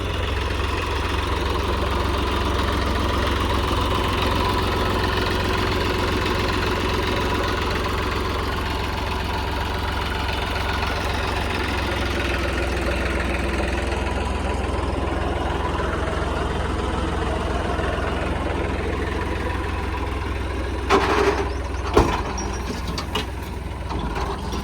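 Heavy diesel machinery engine running steadily, with a couple of sharp knocks near the end.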